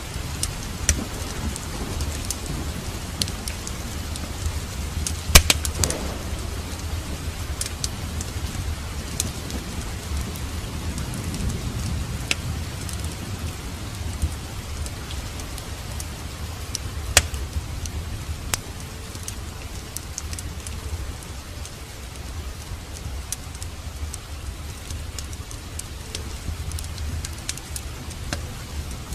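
Steady rain with a low rumble underneath, overlaid by sharp crackles and pops from a burning wood fire in a fireplace; the loudest pop comes about five seconds in.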